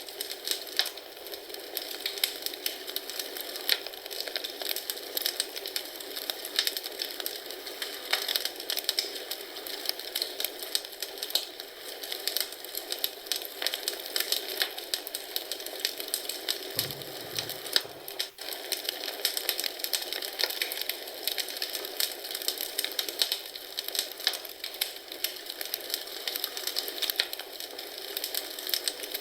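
Wood fire crackling in a fireplace: a dense, irregular run of small pops and snaps over a steady hiss.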